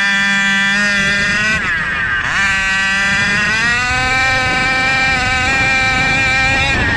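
29cc SCZ E290 two-stroke reed-valve engine running at high revs. About two seconds in the pitch drops sharply and climbs straight back. It then holds high and starts to fall off near the end.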